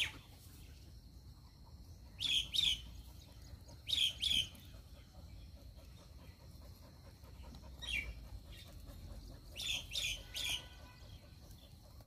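A bird calling in short, high two-note chirps, repeated several times a couple of seconds apart, over a faint low background rumble.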